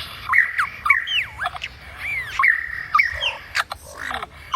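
Lyrebird singing a rapid string of whistled notes that sweep up and down, mixed with sharp clicks, as it mimics other birds' calls.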